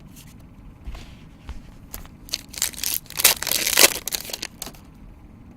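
Foil trading-card pack wrapper being torn open and crinkled, in a run of rustling bursts about two seconds in, loudest past the middle.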